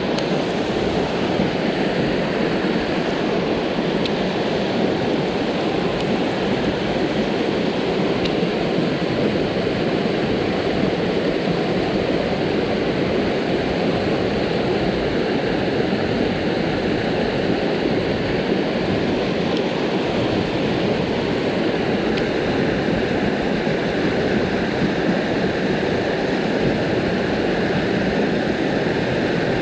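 Rushing water of a mountain headwater stream, a steady, unbroken rush.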